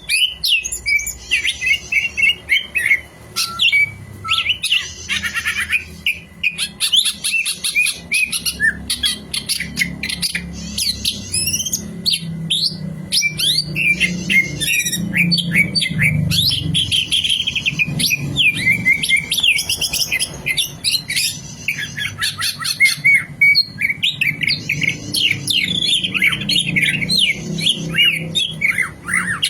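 Green leafbird (cucak ijo) singing a long, fast, unbroken stream of varied chirps, whistles and trills, the kind of song played as a lure to set other songbirds singing. A faint low hum runs underneath.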